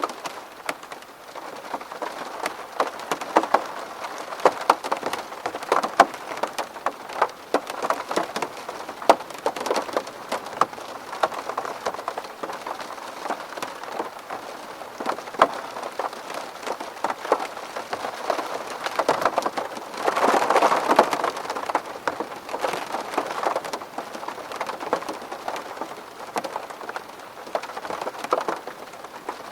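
Steady rain falling on a window pane: a dense scatter of individual drop hits, growing heavier for a moment about twenty seconds in.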